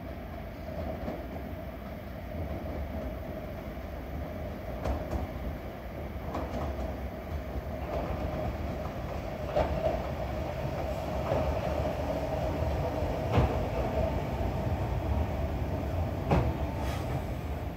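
Sankī Railway Hokusei Line 270-series narrow-gauge electric train running into the station, getting louder as it nears. There is a steady tone over a low rumble, and four sharp clacks from the wheels.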